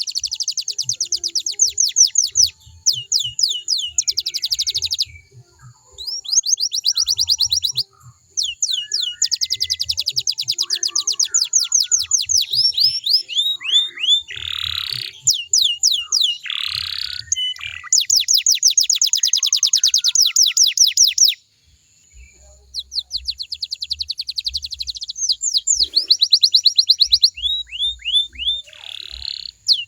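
Domestic canary singing: long rolling trills of rapid, evenly repeated high notes, phrase after phrase, with brief pauses between phrases and a few lower, harsher notes midway.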